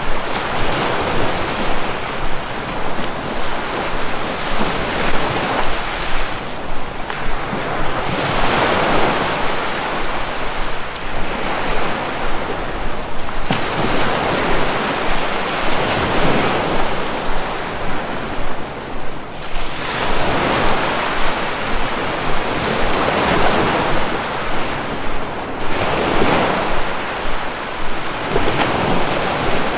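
Sea waves breaking and washing on the shore, a steady rush of surf that swells and ebbs every few seconds.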